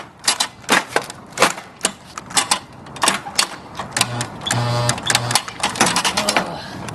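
Irregular sharp clicks and clacks, several a second, with a short buzzing electronic-sounding tone about four seconds in.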